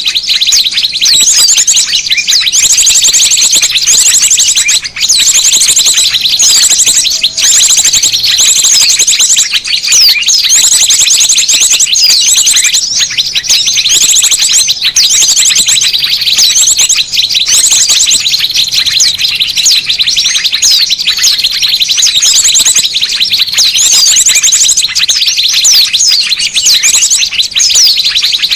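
Dense, continuous chatter of many small birds, with high chirps and fast trills overlapping without a break. This is a bird-lure call track (suara pikat) for drawing small birds in.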